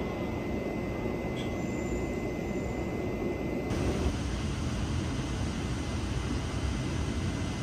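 Steady rumble of a passenger train in motion, the running noise of wheels on rail with a faint steady high tone through it.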